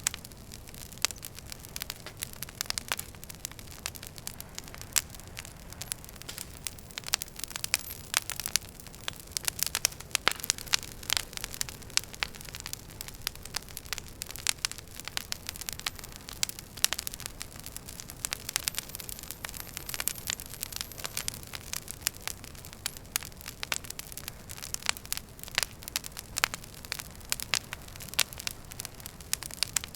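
Wood fire crackling in a fireplace: many sharp irregular pops and snaps, thickest around the middle, over a low steady rumble of the flames.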